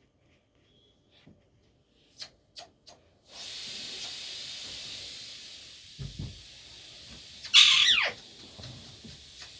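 A pet parrot gives a single harsh squawk that falls in pitch, about three-quarters of the way through, over a steady hiss that starts a few seconds in. Two faint clicks come before the hiss.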